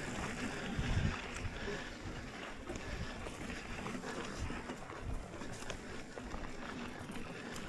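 Mountain bike rolling down a dirt trail: wind buffeting the microphone in gusts over steady tyre noise, with scattered clicks and rattles from the bike.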